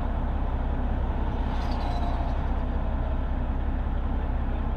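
Diesel engine of a semi truck running steadily, heard as a low, even rumble with a fast flutter.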